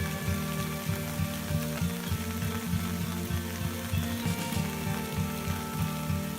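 Steady hiss of heavy rain, with background music underneath.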